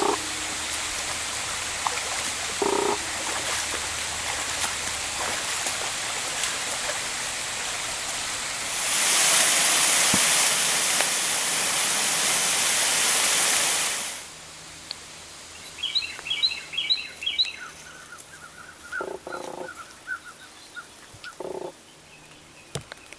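A steady rush of falling water, louder for about five seconds in the middle, cuts off suddenly. A quieter woodland follows, where birds chirp in quick short series.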